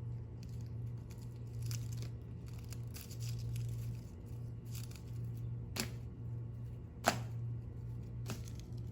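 A cat's paws and claws scraping and tapping against a rubber balloon: scratchy rustles with a few sharp taps, the sharpest about seven seconds in, over a steady low hum.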